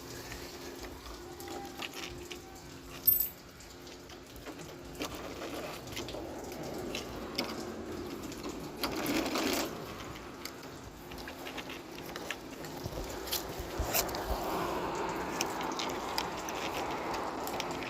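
Scattered clicks and knocks of something being handled, with one sharp knock about three seconds in, over a faint steady low hum.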